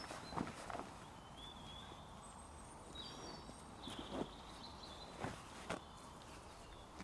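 Small woodland birds calling in short, high chirps, with a few soft knocks or crackles in between.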